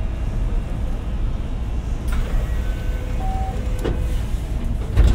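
Cabin noise inside a JR West 227 series electric train: a steady low rumble, with a few clicks and a louder knock near the end.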